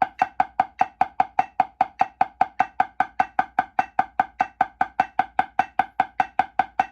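Right-hand drumstick strokes played as steady triplets at 100 beats per minute, about five even strokes a second, each with a clear ringing tone. This is a finger-control exercise for stick tone and sound quality.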